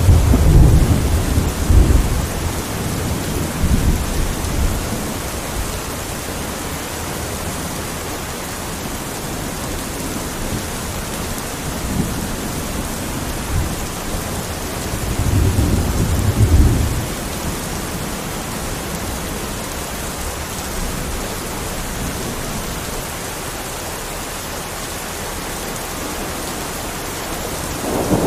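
Steady heavy rain with rolls of thunder: a low rumble at the start that dies away over the first few seconds, another rolling in around the middle, and a third starting at the very end.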